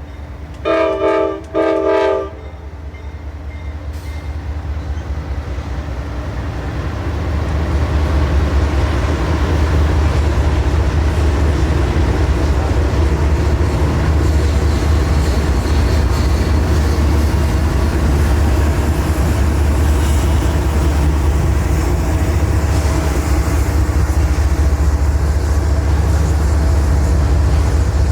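Diesel locomotive horn sounding two short blasts, then a train rumbling closer and passing steadily, its low engine and wheel noise growing louder over the first several seconds and holding.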